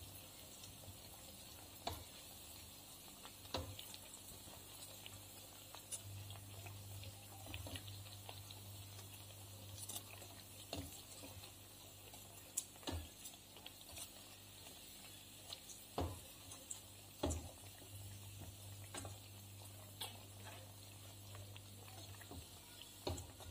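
Bread slices shallow-frying in hot oil in a steel pan give a faint steady sizzle over a low hum. Utensils make sharp taps and scrapes against the pan every second or two as the slices are turned.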